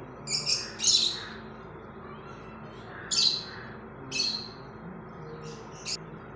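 Parrots giving short, harsh screeching calls, about six of them in loose pairs, over a steady low hum.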